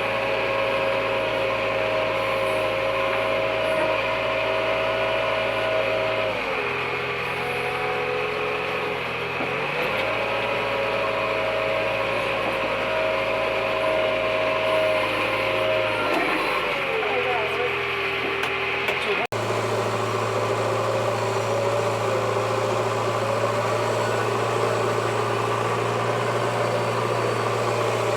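JCB 3DX backhoe loader's diesel engine running steadily. Its note drops and holds lower for a few seconds twice, as the engine takes the load of the hydraulics. A sudden break about two-thirds of the way through, after which the engine runs on steadily.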